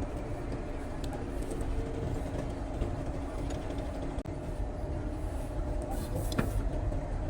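Steady low mechanical rumble, like engine or traffic noise, with a couple of sharp clicks near the end.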